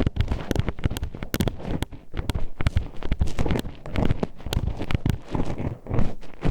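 Metal hairpin poked and tapped inside a microphone's ear, giving rapid, irregular clacking clicks with dull low thumps and scraping between them.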